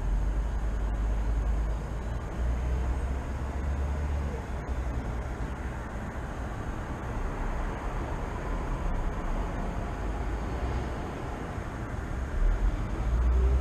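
City traffic ambience: a steady low rumble of passing vehicles, with engine tones rising faintly now and then.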